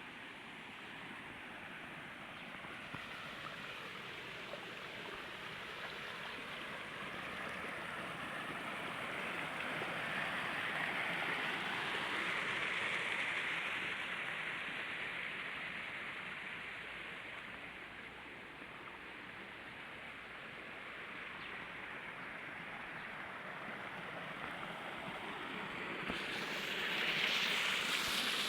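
Flowing stream water, a steady rushing that grows louder toward the middle, eases off, then swells again near the end.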